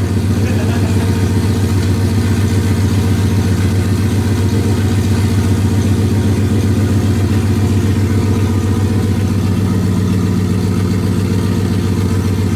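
Turbocharged 2018 Ford Mustang GT's 5.0 V8 running at an even, steady engine speed, its note holding constant.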